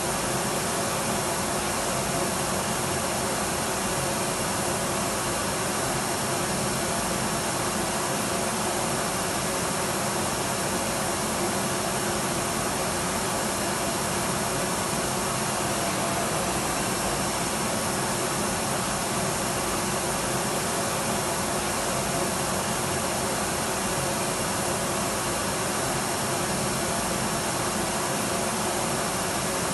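Electric vacuum cleaner running steadily: an even, unbroken motor whine and air rush with faint steady tones and no change in speed.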